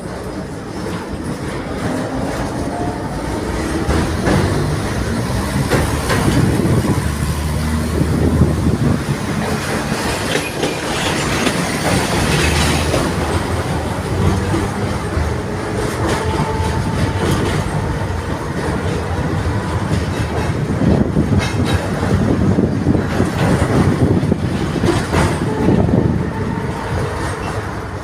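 Ust-Katav 71-631 (KTM-31) tram in motion: steel wheels rumbling along the rails and clacking over rail joints, getting louder over the first few seconds.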